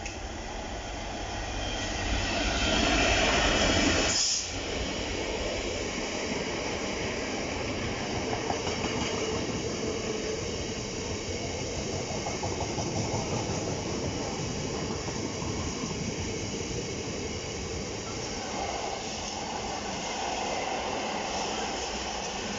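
A GB Railfreight Class 66 diesel locomotive hauls a freight train past at close range. The sound is loudest as the locomotive goes by, about two to four seconds in, and drops off sharply. After that comes the steady run and clatter of the hopper and flat wagons rolling past.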